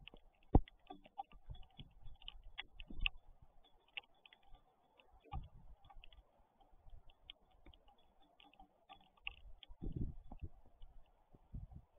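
Raindrops tapping on the nest camera, heard as irregular light ticks and clicks, with a few dull low thumps, the strongest about half a second in.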